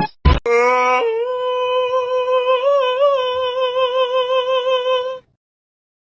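A voice holds one long, high note for about four seconds, wavering slightly, and cuts off suddenly. A brief lower note comes just before it.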